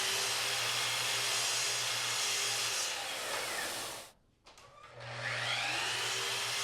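Miter saw set to its trenching depth stop, running while making shallow trenching passes in old wood. The motor winds down and stops about four seconds in, then starts again with a rising whine a second later and runs on.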